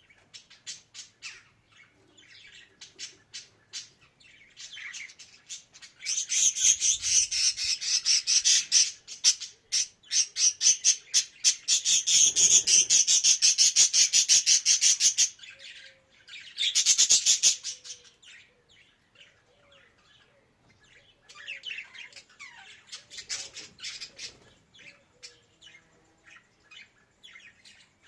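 Budgerigar chirping and warbling in rapid strings of high chirps. It is loudest in a long dense run from about six to fifteen seconds in, then a short burst, then sparser chirps near the end.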